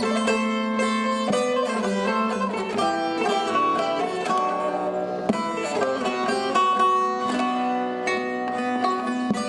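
Bağlama (saz) playing a Turkish folk melody in quick plucked notes over a steady drone string.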